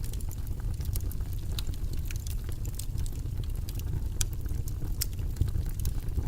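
Steady background ambience noise: a low rumble with faint, irregular crackles scattered throughout.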